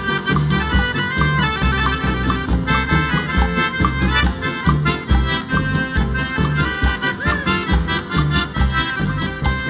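Live band playing an instrumental passage of Brazilian country (sertanejo) music: an accordion leads the melody over a steady, pulsing bass and percussion beat.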